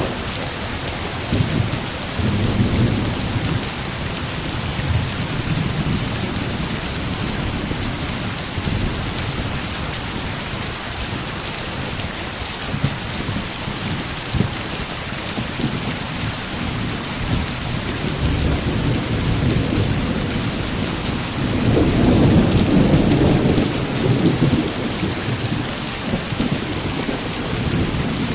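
Heavy, steady rain with rolling thunder rumbling low underneath, swelling loudest about three quarters of the way through.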